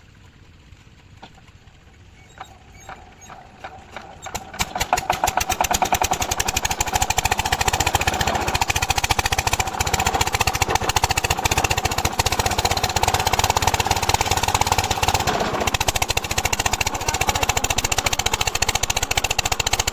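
Single-cylinder 8 hp diesel pumpset engine starting: a few slow firing beats about two seconds in quicken, and it catches about five seconds in, then runs loud and steady with a rapid, even beat.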